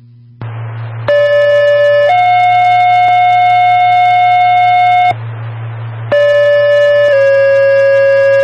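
Two-tone sequential radio paging tones heard over a scanner. A steady tone about a second long steps up to a higher tone held for about three seconds. After a second of radio hiss, a second pair starts, its short tone dropping to a longer, lower one. These are dispatch alert tones that set off the pagers of two units, here the fire department and EMS.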